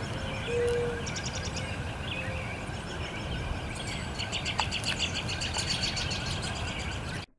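Birds chirping and singing in rapid trills over a steady low background noise, with a few short, flat whistled notes in the first second. The sound cuts off abruptly at the very end.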